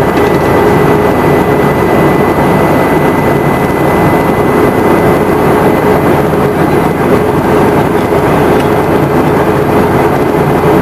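Boeing 717-200's rear-mounted Rolls-Royce BR715 turbofans running steadily, heard inside the passenger cabin as a loud, even roar with a thin constant whine.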